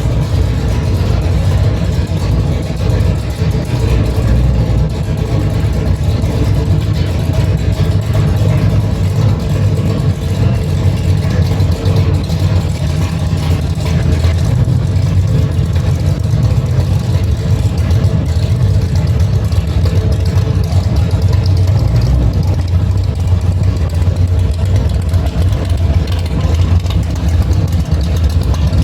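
Car engine running loud and steady, a low rumble with no clear revs.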